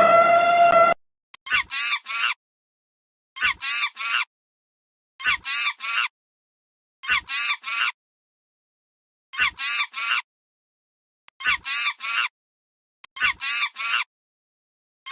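A waterfowl calling in quick groups of three, seven groups about every two seconds with silence between, after a short held pitched tone at the very start.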